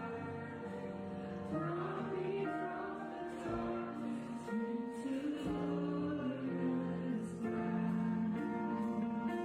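Church worship music: voices singing with instrumental accompaniment.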